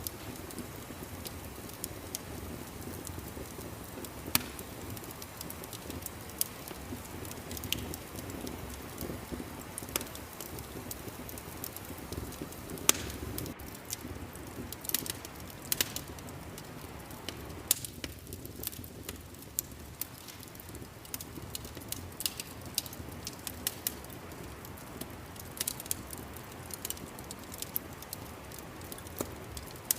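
Wood fire crackling in a fireplace: a steady low rustle of burning with sharp pops and snaps scattered at irregular intervals.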